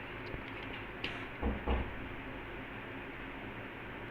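A few faint clicks and a low bump of handling as a 20 A double-pole switch's plastic housing is worked open, over steady background hiss.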